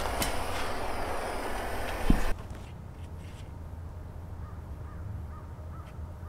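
A steady rushing noise that ends in a loud thump and cuts off abruptly about two seconds in, followed by quieter outdoor ambience with a few faint, short bird calls.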